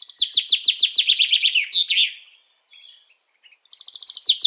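A songbird singing a rapid series of short notes that fall step by step in pitch over about two seconds, ending in a brief rougher note. The same song starts again near the end.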